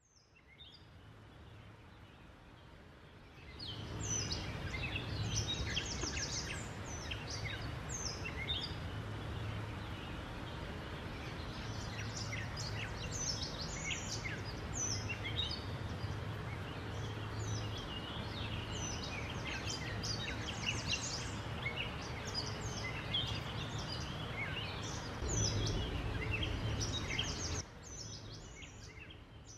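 Many short, high bird chirps and calls over a steady low hum, starting about four seconds in. The hum swells briefly near the end, then the sound drops away.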